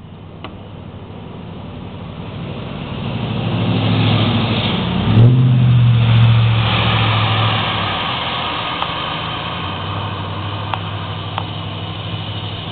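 A motor vehicle passing by on a wet road. Engine hum and tyre hiss build over a few seconds, peak about five seconds in, then fade slowly.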